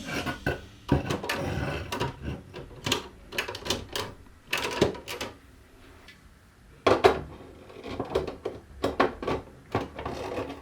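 Marbles clicking and clattering irregularly against the plastic pieces of a toy marble run, with a sharper clack about five seconds in and another about seven seconds in.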